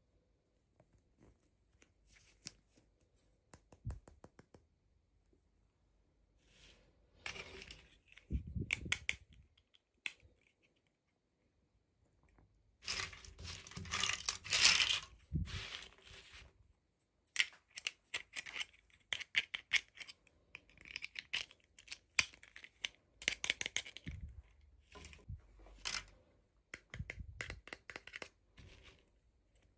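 Toy packaging being opened by hand: irregular bursts of tearing and crinkling with scattered sharp clicks and taps, the longest stretch of tearing about halfway through.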